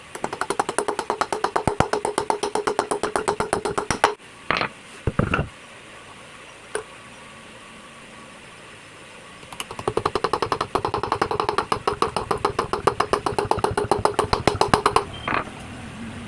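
A rapid mechanical rattle of about ten beats a second, in two runs of about four and five seconds, each starting and stopping abruptly. Two short swishing sounds come between them.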